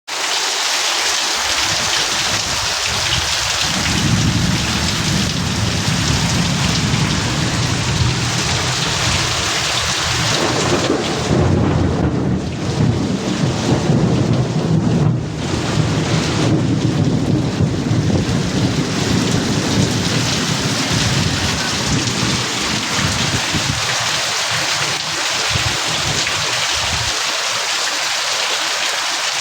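Heavy rain pouring steadily, with a long low rumble of thunder that builds a few seconds in, is loudest around the middle, and dies away near the end.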